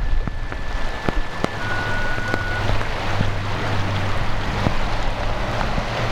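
Hurricane wind and rain: a steady rush of wind with low buffeting on the microphone, scattered sharp ticks of drops striking, and a thin whistle for the first couple of seconds.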